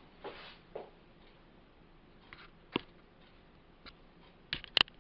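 A few faint, scattered clicks and taps over quiet room tone, then a quick cluster of sharper clicks near the end, the last one the loudest.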